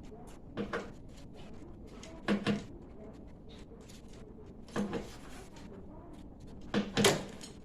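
Four short double clunks about two seconds apart, the last the loudest: knocks from handling parts and tools during air conditioner installation work.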